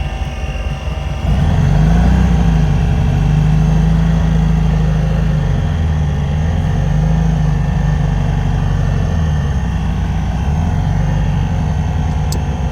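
Air-cooled VW flat-four engine, an 1800 cc, running under load in a 1957 Beetle. It revs up sharply about a second in, then its note rises and dips several times as the car is driven.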